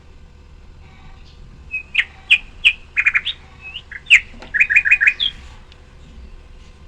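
Small birds chirping: a cluster of short, sharp chirps starting about two seconds in, including quick runs of four or five notes, then dying away.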